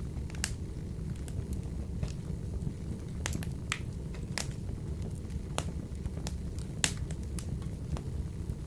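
Wood fire burning in a wood-burning stove: irregular sharp crackles and pops over a steady low rumble of the flames, with the loudest pop about seven seconds in.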